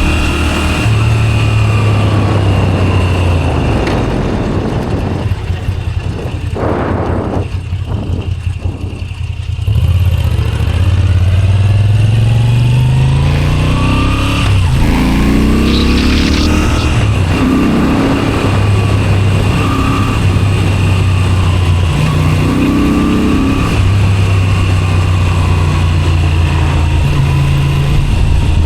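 Moto Guzzi V7 Special 850's air-cooled transverse V-twin running through a Zard exhaust while riding. The engine eases off and goes quieter for a few seconds, then pulls with rising pitch about ten seconds in, changes up a few times, and settles into a steady cruise.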